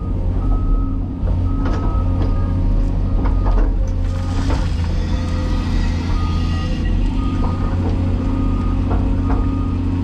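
Heavy diesel construction machinery running steadily while a backup alarm beeps at an even pace, about once a second. Scattered metal knocks and clanks, and a hiss from about four to seven seconds in.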